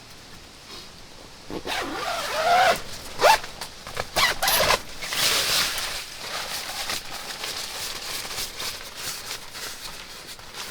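Camping gear being handled: a few loud, rasping, zipper-like pulls between about one and a half and five seconds in, then a run of light clicks and rustling.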